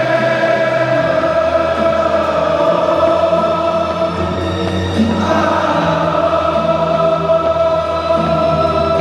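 Music with a choir singing long held notes; the chord changes about five seconds in.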